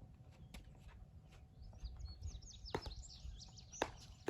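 Small birds chirping in a quick run of high, sweeping calls from about two seconds in. Two sharp pops of a pickleball struck by paddles come about a second apart near the end.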